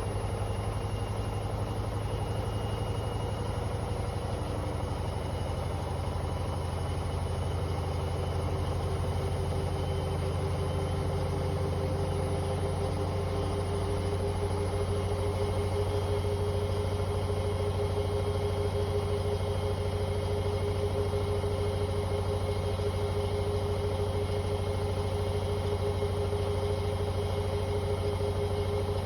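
Hoover H-Wash 500 washing machine on a 1600 rpm spin-only cycle, drum spinning at high speed with a steady low hum and a constant motor whine.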